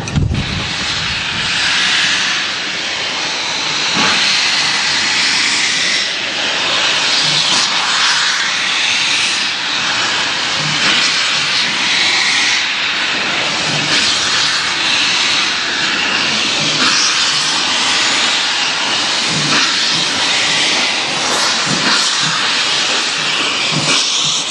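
Steam escaping from a steam locomotive: a loud, steady hiss that holds throughout.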